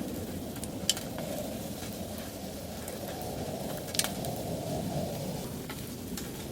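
Food frying, a steady sizzle with scattered sharp pops, the loudest about a second in and about four seconds in.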